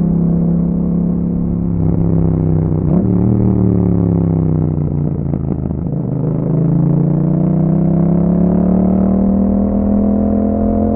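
2021 Yamaha MT-07's 689 cc parallel-twin engine running through an Akrapovic exhaust with a dB killer, under way on the road. The note breaks and drops about two to three seconds in and sinks until about halfway, then climbs steadily as the bike accelerates.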